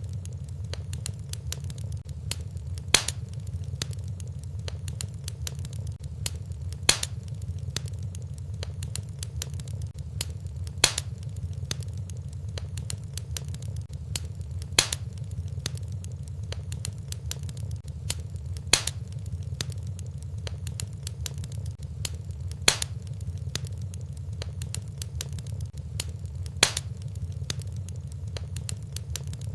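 Wood fire burning in a fireplace: a steady low rumble of flames with constant small crackles, and a sharp louder pop about every four seconds.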